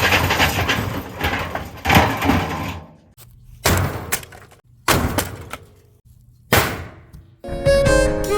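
Frigidaire front-loading washing machine crashing and breaking apart: loud continuous banging and rattling, then three separate crashes about a second apart, each dying away.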